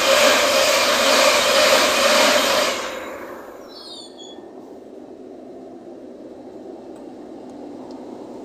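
Passenger train passing through at speed with a loud, steady rail rush that drops away sharply about three seconds in, followed by a few short high squeals. A quieter steady running noise follows from the LNER Azuma train moving slowly alongside, growing a little louder near the end.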